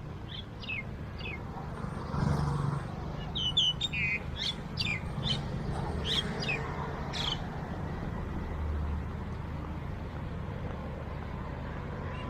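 Birds chirping: a run of short, quick, falling chirps, thickest in the first half and fading out after about seven seconds, over a steady hum of road traffic.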